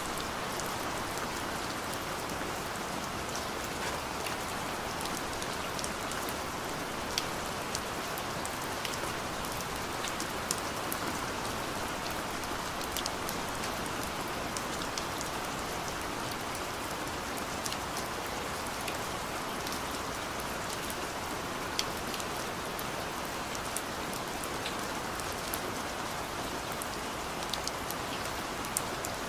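Steady rain on a car's roof and windows, heard from inside the cabin, with scattered sharp ticks of single drops.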